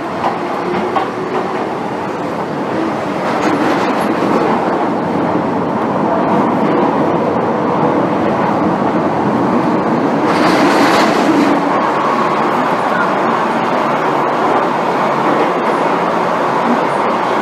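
MTR M-Train electric multiple unit heard from inside the passenger car while running along the line: a steady rumble of wheels on rail and traction equipment that grows a little louder a few seconds in, with a brief louder rush about ten seconds in.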